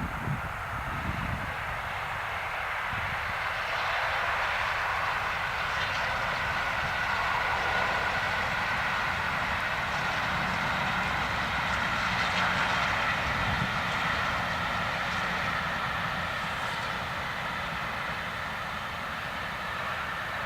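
Steam locomotive 60163 Tornado, a Peppercorn A1 Pacific, hauling its train at speed past the lineside: a steady rushing rumble of engine and coaches rolling by that swells to a peak midway and eases a little, with wind buffeting the microphone near the start.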